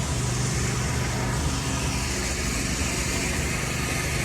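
Steady low mechanical hum, with an even background rush of noise.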